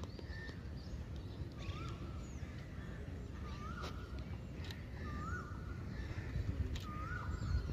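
A bird calling, repeating a short whistled note that rises and then levels off, four times, over steady outdoor background noise with a few faint clicks.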